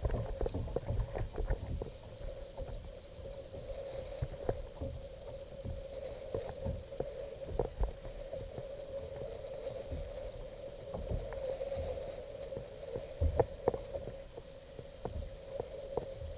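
Kayak on the water while trolling: water sloshing and knocking against the hull, with scattered clicks and a steady hum throughout.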